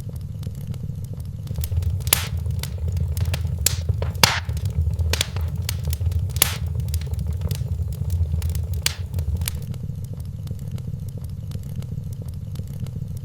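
Wood fire in a fireplace crackling, with scattered sharp pops over a low steady rumble. The pops come thickest through the middle and thin out near the end.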